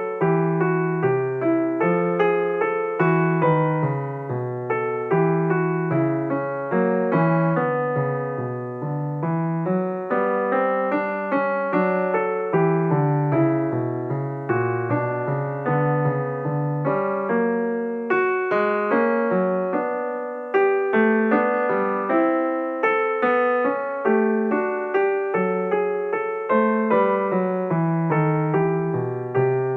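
Background piano music: a steady flow of notes with a regular rhythm.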